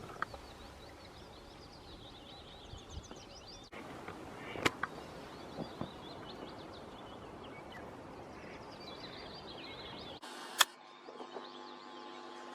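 Outdoor ambience with a small bird singing in rapid series of short high notes for most of the time, a sharp click about halfway through, and near the end the background switches abruptly to a steady hum with another loud click.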